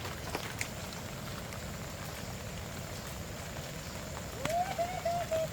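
Steady hiss of rain. About four seconds in, a short, high, wavering voice-like call rises over it.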